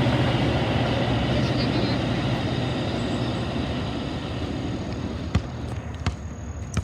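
Train rolling past with a steady low rumble that slowly fades, and a few sharp clicks near the end.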